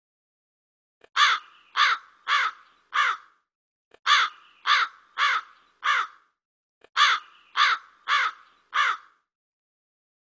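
A bird cawing harshly: three runs of four caws each, the runs about two seconds long with a pause of about a second between them.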